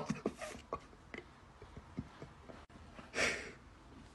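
A few faint knocks, then a short breathy sigh about three seconds in.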